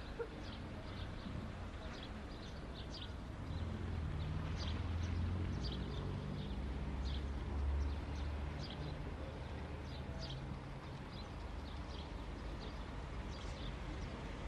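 Birds chirping, short high calls scattered throughout, over a steady low rumble.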